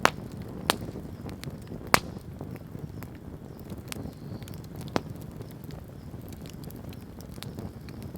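Wood campfire crackling over a low steady rumble, with four loud sharp pops among many small ticks.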